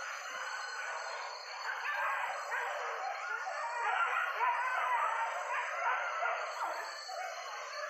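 A pack of hunting dogs yelping and baying together, many overlapping wavering cries without a break.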